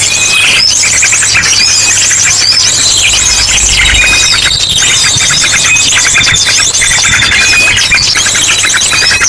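A bird-lure recording: a loud, dense chorus of many small birds chirping and chattering at once, mixed with the rapid-fire song of an ashy drongo. Fast trills and repeated high notes overlap with no pause.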